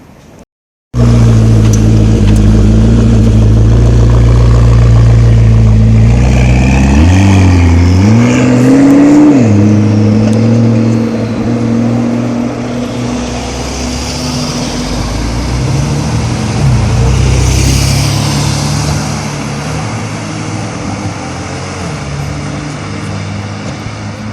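McLaren 12C Spider's twin-turbocharged V8 running loud and steady, starting abruptly about a second in. It gives a couple of quick blips in revs about seven to nine seconds in, then slowly fades as the car moves off.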